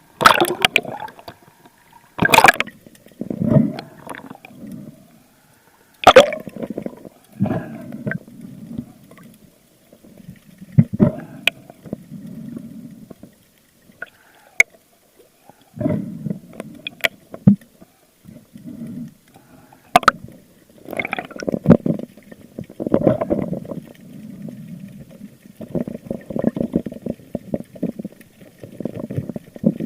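Water gurgling and sloshing around the microphone in irregular surges, with sharp clicks and knocks scattered through.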